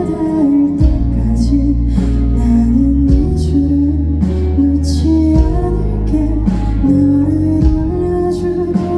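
Live band music with a woman singing; a drum beat falls about once a second under a steady bass.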